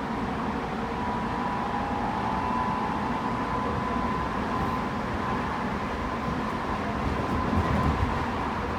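Tobu 9050 series electric train running, heard inside the car above its Toyo two-level GTO-VVVF inverter: a steady whine near 1 kHz from the inverter over the rumble of the wheels on the rail. The low rumble swells briefly about seven and a half seconds in.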